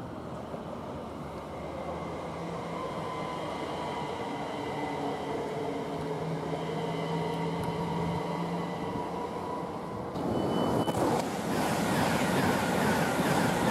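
An electric multiple-unit train runs in on the far line with a steady electric motor whine over the rumble of its wheels. About ten seconds in, an express train passes close at speed, and a loud rush of wheel and air noise takes over.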